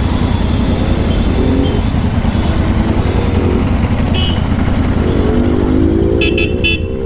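Royal Enfield Continental GT 650's 648 cc parallel-twin engine running with its tail pipes removed, heard from the bike while riding, with the revs rising about five seconds in. A vehicle horn sounds briefly near the end.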